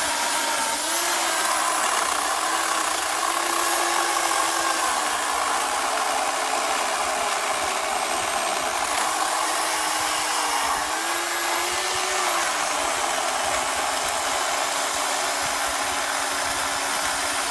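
Corded WEN CP1014 10-amp electric chainsaw running with a steady motor whine over a hiss, its pitch sagging and recovering several times.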